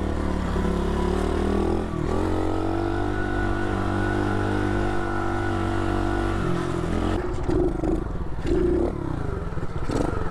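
SSR 110cc pit bike's single-cylinder four-stroke engine running under load while riding. Its pitch dips briefly about two seconds in, as at a gear change, and holds steady until it drops and turns choppy with short throttle blips after about seven seconds.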